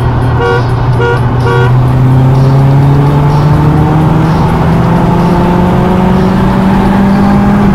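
Three short beeps half a second apart give the start signal. Then a car engine, heard from inside the cabin, accelerates hard in one gear, its pitch rising steadily with no gear change.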